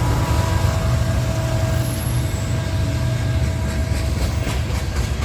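Freight train's diesel locomotive passing with a low engine rumble and faint steady tones that fade about four seconds in; near the end the coal train's wheels begin clicking over rail joints.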